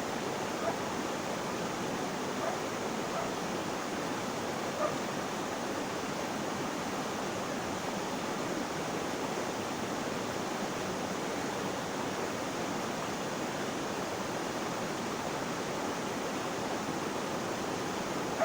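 Flowing water rushing steadily, an even hiss with no rhythm. Faint short calls sound a few times in the first five seconds.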